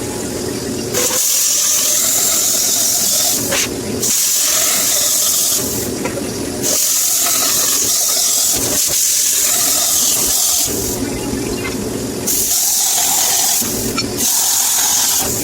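Loud hissing in five bursts of one to four seconds each, with a steady low hum in the gaps between them.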